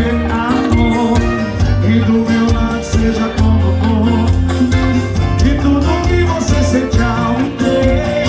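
Loud forró music played by a band, with a steady bass beat and a lead voice singing.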